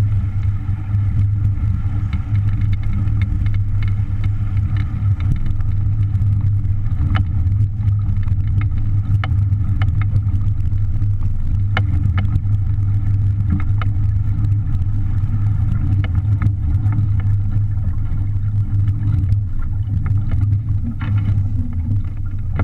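Strong wind buffeting the microphone on a small sailboat moving fast under sail in gusty 20-knot wind, a loud steady low rumble with scattered light clicks and splashes.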